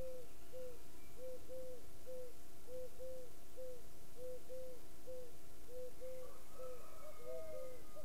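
Birds calling: a run of short, soft hooting notes repeated two to three times a second, some in pairs, with a longer, higher drawn-out note near the end over a faint steady hum.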